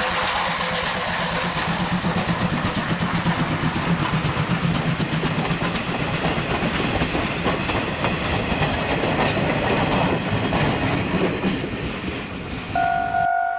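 The C12 66 steam locomotive and its train passing close by at speed, with a fast, even clatter of wheels and running gear over the rails. About a second before the end the sound cuts abruptly to a railway level-crossing bell ringing, about two strokes a second.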